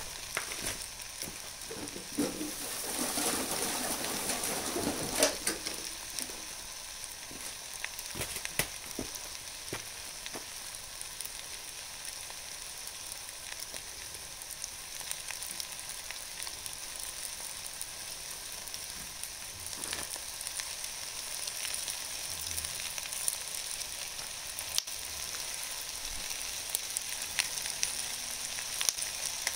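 Vegetables sizzling in an aluminium tray over a charcoal shichirin: a steady frying hiss with scattered crackles and clicks. A louder rushing noise lasts a few seconds near the start.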